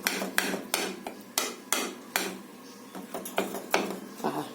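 Boiled eggs being mashed with a metal utensil against a dish: a run of irregular sharp clicks and taps, about two to three a second.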